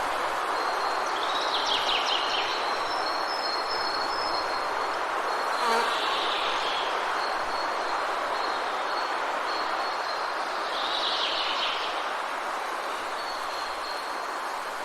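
Forest ambience: a steady rushing of rain, with a thin high note that comes and goes and short bursts of bird chirping about two, six and eleven seconds in.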